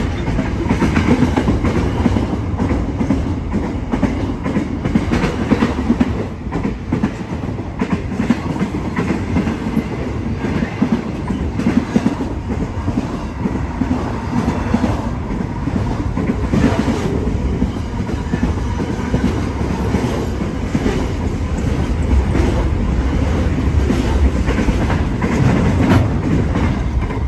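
Freight train of container wagons rolling past close by: a steady low rumble with the wheels clattering over the rail joints.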